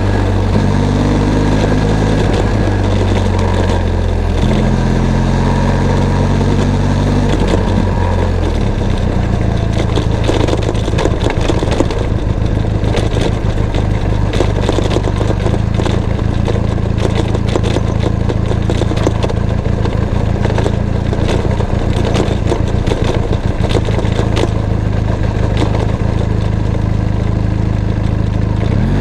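Benelli TRK 502 X motorcycle's parallel-twin engine running while riding, its note changing in steps for about the first eight seconds, then holding steady under a loud rushing noise.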